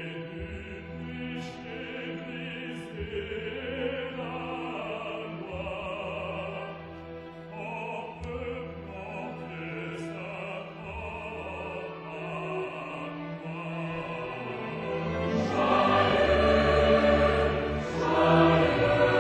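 Choir singing slow, sustained lines with a string orchestra accompanying, swelling clearly louder about three-quarters of the way through.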